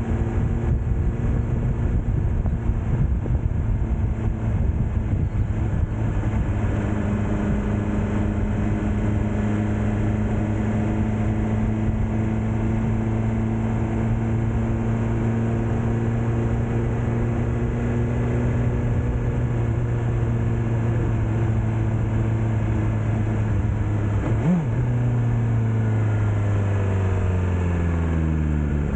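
BMW S1000R motorcycle's inline-four engine running at a steady cruise under a rush of wind and road noise. About 24 seconds in there is a brief sharp blip in pitch, and then the engine note falls steadily as the bike slows.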